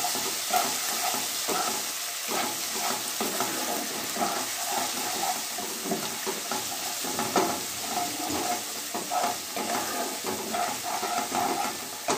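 Chopped onions with ginger paste and garlic sizzling steadily in hot mustard oil in a kadai, stirred with a spatula that scrapes across the pan in frequent short strokes.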